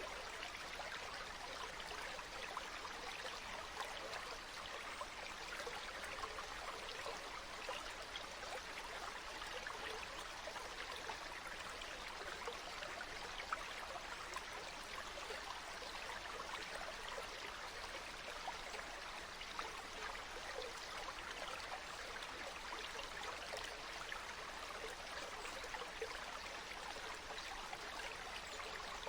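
Flowing water: a small stream running steadily, a constant rushing hiss with fine splashing and trickling.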